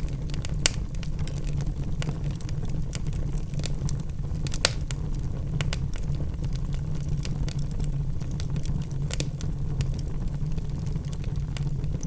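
Wood fire burning in a fireplace: a steady low rumble of flames with logs crackling throughout, and a few sharper pops, the loudest about half a second in and again just before the middle.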